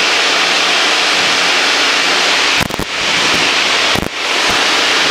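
Light training airplane in flight: a steady, loud drone of engine and airflow in the cabin. The sound briefly drops out twice in the second half.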